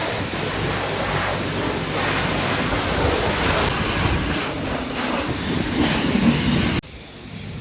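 Car wash spray: a steady rushing hiss of water jetting onto a car, which cuts off suddenly near the end.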